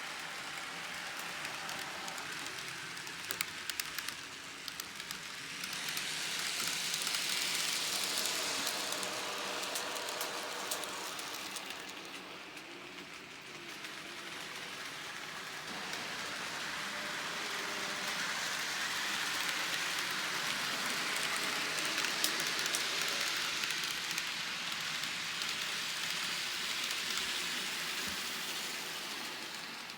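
Model trains running on a layout: a steady hiss of wheels and motors on the track that swells and fades twice as trains pass close, with light clicks.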